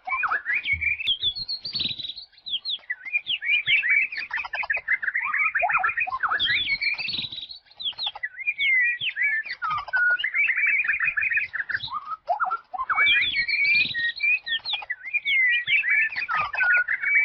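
Songbird singing a fast, chattering, twittering song of rapid high notes, in phrases of a few seconds each separated by short breaks.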